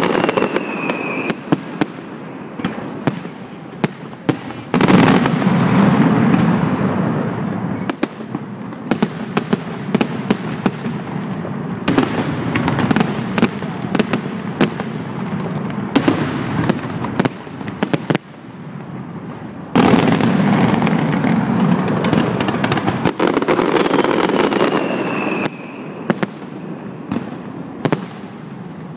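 Aerial fireworks display: continuous crackling of bursting shells, thick with sharp bangs, with heavier volleys about five seconds in and again about twenty seconds in. A short falling whistle comes near the start and again toward the end.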